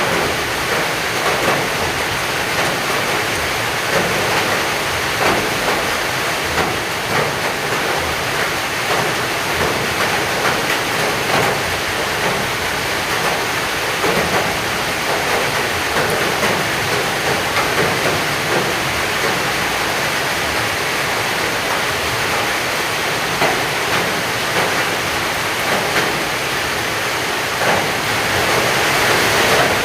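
Heavy rain falling steadily, with many scattered drops tapping on a nearby surface; it grows a little heavier near the end.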